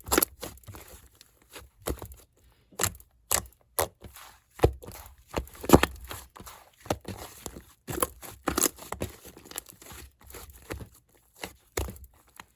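Hands squishing and stretching a large fluffy slime, making irregular crackling and popping sounds, with a few louder pops among them.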